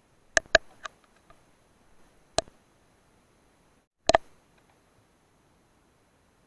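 A few short, sharp clicks and knocks: a pair about half a second in, another just after, a single one about two and a half seconds in, and a double click a little after four seconds, with near quiet between them.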